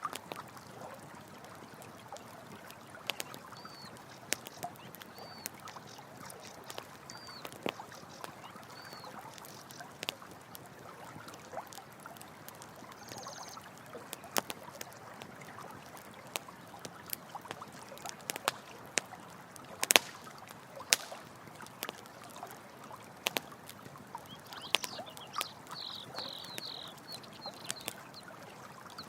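Campfire crackling with irregular sharp pops, the loudest about two-thirds of the way in, over the steady rush of running water. Short high chirps come four times early on and again in a quick cluster near the end.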